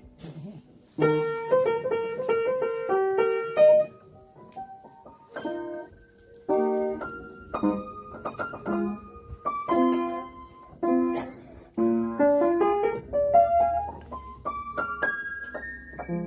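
Background piano music: a gentle run of struck notes and chords.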